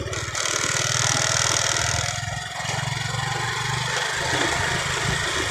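Motor scooter engine running under way, a steady drone that eases slightly about two seconds in and then picks up again, with rushing wind and road noise.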